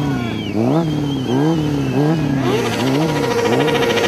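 Motorcycle engine revved over and over, pitch jumping up and sagging back several times, then held at high revs for about two seconds from two and a half seconds in, with a wavering high squeal above it.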